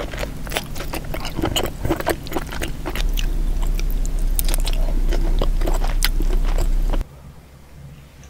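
Close-miked eating sounds: wet chewing, lip smacking and sucking on sauce-coated seafood eaten by hand, a quick run of sharp wet clicks. A steady low hum sits underneath from about three seconds, and everything turns much quieter at about seven seconds.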